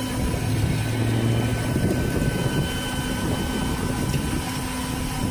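Flatbed rollback tow truck's engine running, a steady mechanical drone with a low hum.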